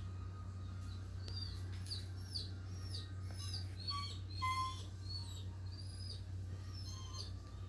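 Small birds chirping, many short high notes a second in quick overlapping runs, over a steady low hum.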